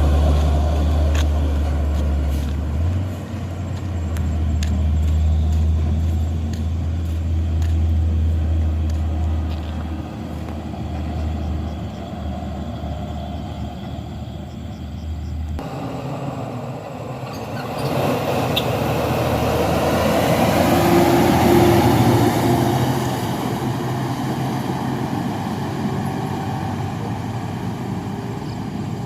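Diesel engine of a loaded dump truck pulling up a steep hill, a steady low drone that cuts off abruptly about halfway through. Then another truck is heard approaching and passing; its engine and tyre noise swells and fades.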